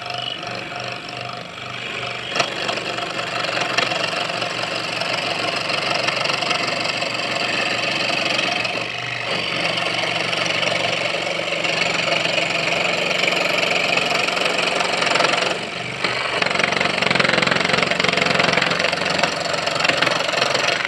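Small electric scroll saw (mini jenter) running and cutting curves in wood: a steady machine noise with a sharp click about two seconds in and brief dips about nine and sixteen seconds in.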